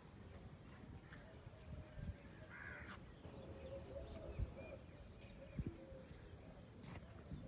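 A crow cawing, most clearly once about three seconds in, over faint background noise with a couple of soft knocks.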